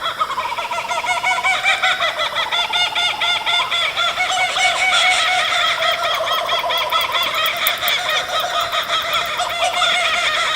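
Birds calling in a continuous, dense chatter of rapid repeated notes, several voices overlapping.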